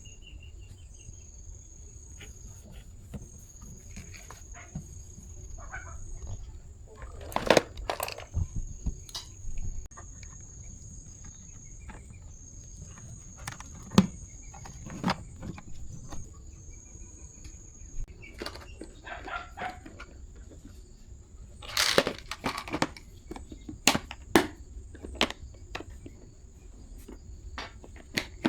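Crickets trilling steadily on one high tone, with scattered sharp clicks and knocks of objects being handled, the loudest clusters about 7 s, 14 s and 22 s in.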